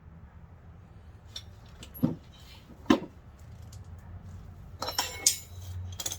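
Metal parts and tools being handled during a brake pad job: two dull knocks about two and three seconds in, then a quick cluster of metallic clinks with a brief ring near the end.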